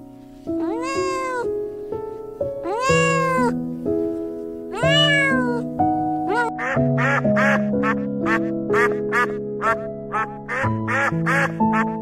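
A cat meowing three times, each call rising then falling in pitch. From about six seconds in, a duck quacks in a fast run of about three quacks a second. Background music with long held tones plays throughout.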